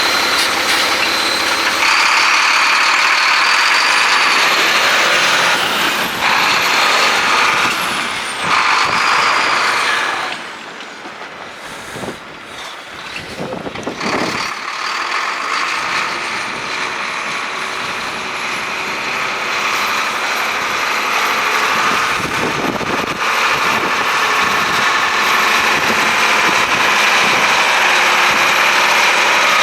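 Heavy diesel engine of a 2012 Mack CXU613 truck tractor running, with a thin high whine over it. It drops off for a few seconds about ten seconds in, then builds back up.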